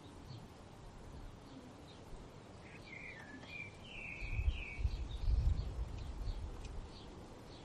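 A bird calls a short warbling phrase of quick pitch-jumping notes about two and a half seconds in, with faint chirps around it. A low rumble comes up in the middle and is the loudest sound.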